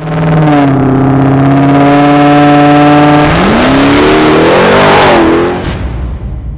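High-horsepower car engine held at steady high revs for about three seconds, then its pitch climbs and wavers with one dip, and the sound cuts off abruptly.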